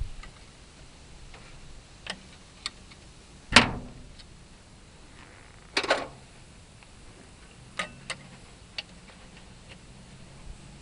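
Scattered sharp clicks and knocks of hand work on a tractor's ignition coil mounting, about eight in all, the loudest about three and a half seconds in and a quick double knock around six seconds.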